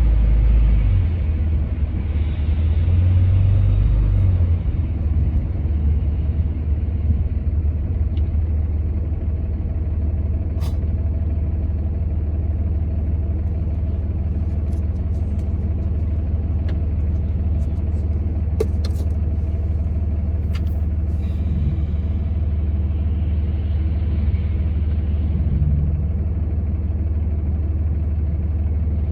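Steady low rumble of a road vehicle on the move: engine drone and road noise, with a few faint ticks in the middle.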